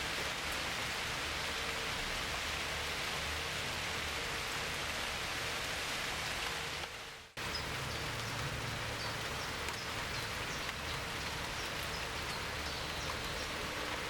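Heavy rain falling steadily, with birds chirping faintly in the background in the second half. The sound fades and drops out for a moment about halfway through, then the rain comes straight back.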